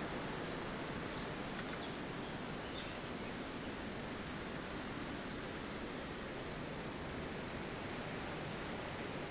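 Wind blowing through forest trees, a steady, even rush of noise, with a couple of faint high bird chirps about two to three seconds in.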